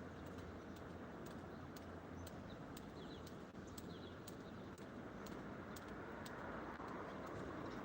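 Steady rain falling, with scattered sharp drips ticking irregularly and a few faint high chirps.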